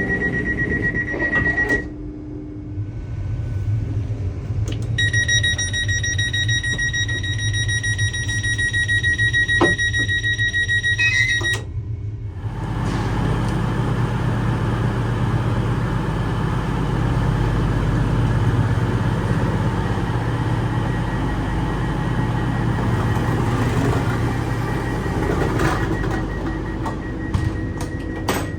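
Train door-closing warning: a high, rapidly pulsing beep for about six seconds, after a short steady tone near the start. About a second after the beeping stops, the train moves off with a steady running rumble.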